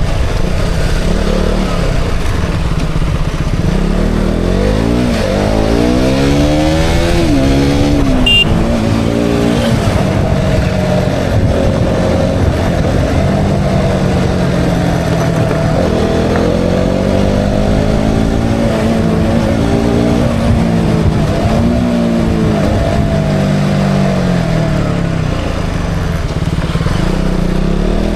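KTM Duke 200's single-cylinder engine under way, its pitch repeatedly rising and falling as the rider accelerates and eases off. There is a climb through the revs from about four to eight seconds in, and a brief high beep a little after that.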